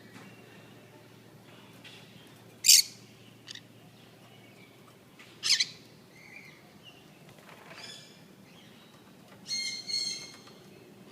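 Small pet parrots calling: two short, loud, shrill squawks about three seconds apart, fainter chirps between them, and two longer, harsher calls near the end.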